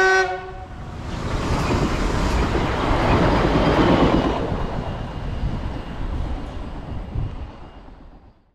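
Electric passenger train giving a short horn blast, then rushing past at speed with wheel and air noise that swells and then fades away.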